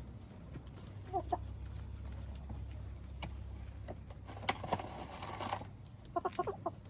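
Backyard hens clucking: a couple of short clucks about a second in and a quick run of clucks near the end, with a few sharp clicks in between.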